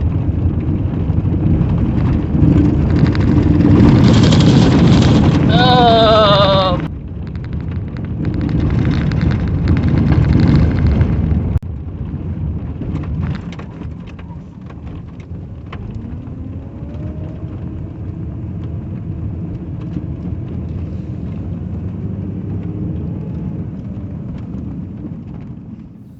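Car driving over a washboard gravel road: a loud, steady low rumble of tyres and body rattle. After about eleven seconds it drops to a quieter steady rumble.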